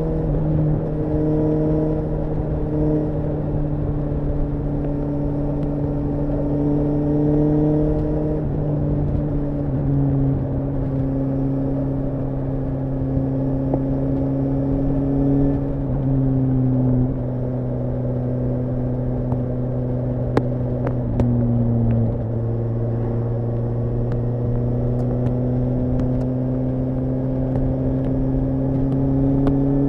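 Suzuki GSR750 motorcycle's inline-four engine running at a steady cruise. Its note eases gradually lower for the first two-thirds, then climbs again near the end as the throttle opens.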